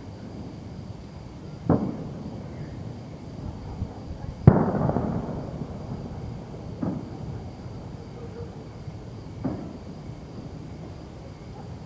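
Fireworks bursting: four separate bangs a couple of seconds apart, the second much the loudest, with a rumble trailing off for about a second after it.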